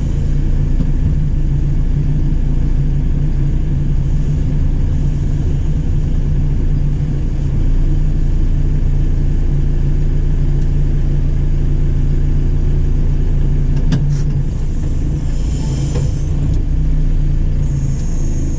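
JCB 4CX backhoe loader's diesel engine running steadily under work, with a sharp click about three quarters of the way through and two brief hisses near the end.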